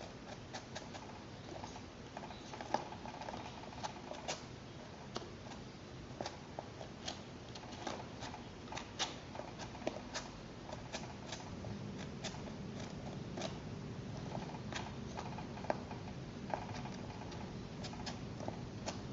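Least weasel making short, sharp clicks, scattered irregularly at about one or two a second.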